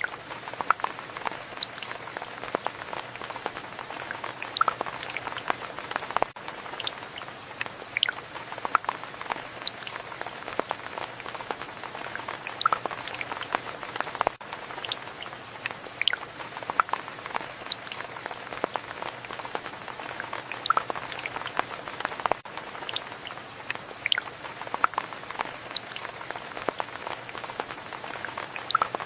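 Steady rain: an even hiss with many individual drops ticking in quick, irregular succession.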